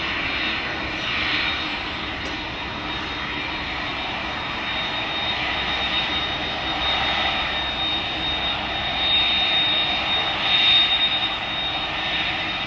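Airplane engine noise from an aircraft flying past: a continuous rushing drone with a thin steady high whine, slowly growing louder to a peak about ten seconds in. It cuts off suddenly at the end.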